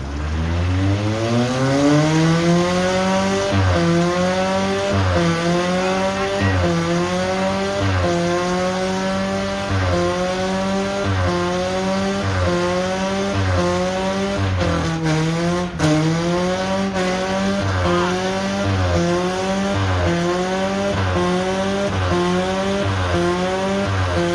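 A truck engine held at high revs through a long burnout, with tyre squeal. The revs climb over the first few seconds, then swing up and down about every second and a half.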